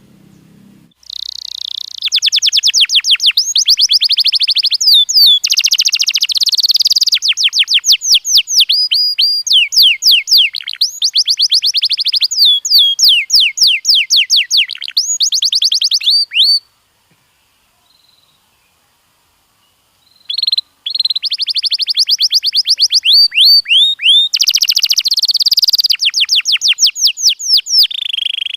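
Domestic canary singing long rolls of fast, evenly repeated high trills. The song breaks off about halfway through, pauses for a few seconds, then starts again.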